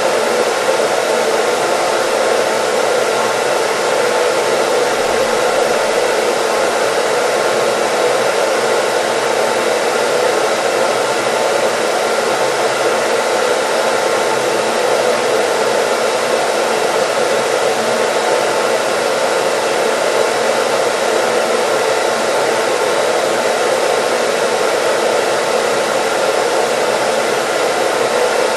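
Hair dryer running continuously: a steady, even whoosh of blown air with a faint motor hum, unchanging throughout.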